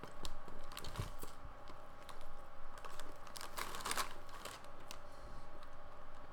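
Quiet eating sounds: a person chewing a sandwich, with scattered small clicks and a few brief rustles.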